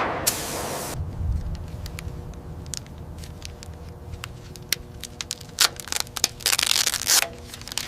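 A hiss that cuts off about a second in, giving way to a low rumble with a faint steady hum and scattered sharp cracks and crackles, which come thickest between about five and seven seconds in.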